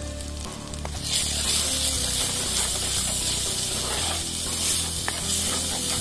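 Spices and paste sizzling in hot coconut oil as a wooden spatula stirs them; the sizzle jumps up sharply about a second in and stays loud.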